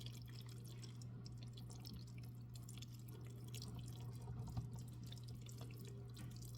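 Faint, soft, wet clicks and ticks of a spoon working saucy pasta in a baking dish, over a steady low hum.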